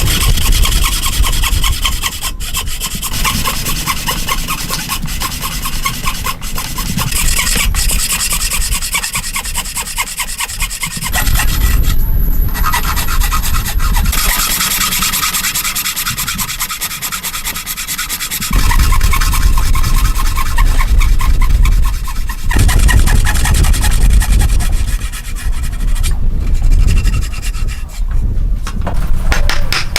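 A hand tool working wood: continuous rasping, rubbing strokes on timber, changing in pace and tone a few times.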